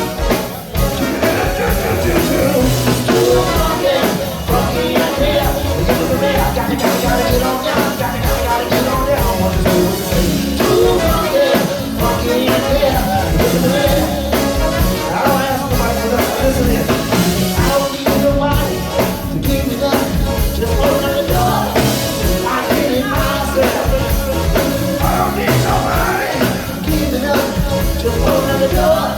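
Live funk band playing an uptempo groove with a steady drum beat and electric instruments, with sung vocals over it.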